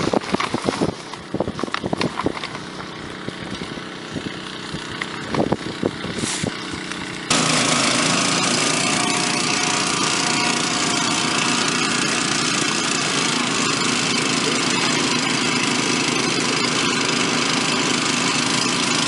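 Scattered knocks and handling clatter, then, about seven seconds in, the engines of the water pumps filling the AquaDam come in suddenly and run steadily and loudly.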